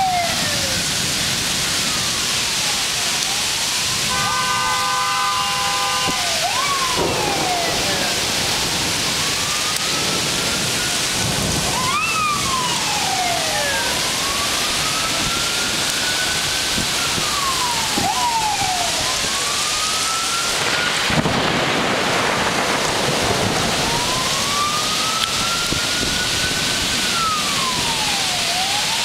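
Heavy rain and wind noise from a violent thunderstorm, steady throughout, with emergency-vehicle sirens wailing, rising and falling over and over. About four seconds in, a vehicle horn sounds for about two seconds, and about 21 seconds in the storm noise swells briefly.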